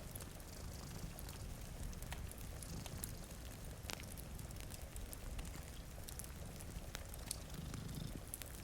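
Wood fire crackling, with sharp irregular pops over a steady hiss of rain, and a low cat purr coming up briefly near the end.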